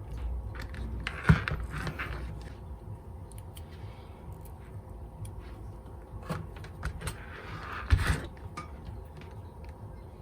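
Handling noise from small tools and parts on a workbench: scattered light clicks and taps, with two louder knocks about a second in and around eight seconds.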